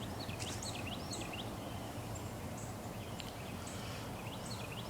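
Songbirds calling: quick series of high whistled notes that sweep down and up, a burst near the start and another about four seconds in, with short thin high notes between, over a steady outdoor rumble.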